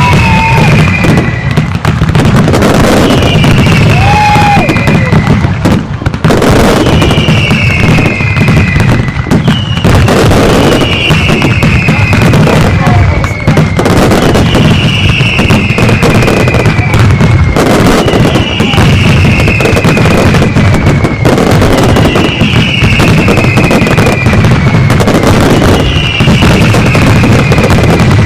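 Fireworks crackling and banging without a break. Over them, a falling two-note musical figure repeats evenly about every three seconds.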